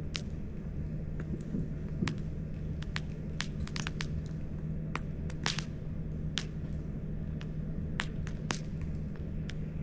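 Wood campfire crackling, with irregular sharp pops and snaps, several clustered about four seconds in, over a steady low rumble and hum.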